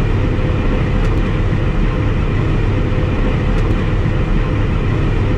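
Claas Lexion 760 combine harvester running steadily while harvesting wheat: a constant heavy drone of engine and threshing machinery with a steady hum, unchanging throughout.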